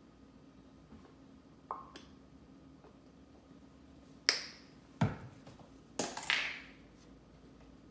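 A few sharp clicks and knocks of small hard objects, a light one early, two loud ones about four and five seconds in, then a quick cluster around six seconds with a brief scraping tail.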